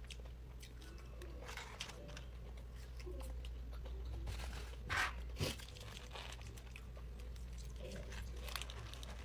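Close-miked chewing and crunching of food, with moist mouth clicks throughout and two louder crunches about five seconds in.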